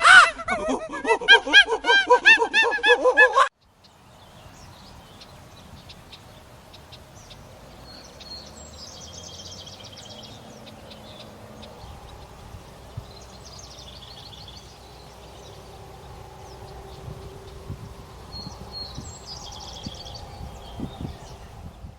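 Loud, rapidly repeated bird calls that cut off abruptly about three seconds in. Then a quiet stretch of background noise with faint high chirps three times.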